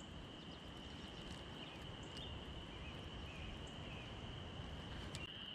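Steady high-pitched insect trill with a few faint bird chirps, over a low rumble of wind.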